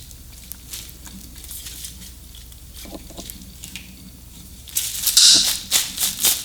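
Unboxed parts and their packaging being handled: faint scattered clicks and rustles, then a burst of louder rustling near the end.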